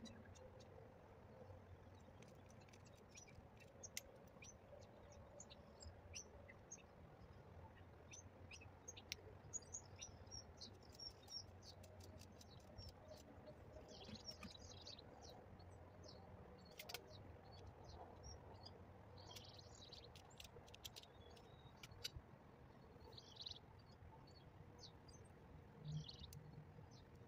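Faint birds chirping, many short high chirps spread throughout, with scattered sharp clicks and a faint low steady hum underneath.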